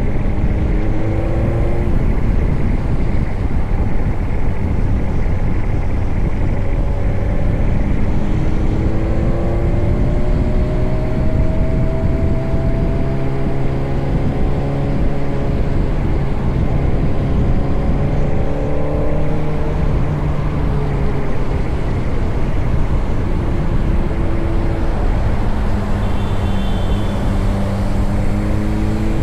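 Motorcycle on the move: the engine runs, its pitch rising and falling slowly as the speed changes, under a heavy low wind rumble on the microphone.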